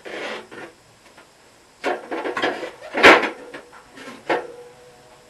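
Fridge parts and containers being handled, with a series of knocks and clatters. The loudest knock comes about three seconds in, and another just after four seconds is followed by a brief ring.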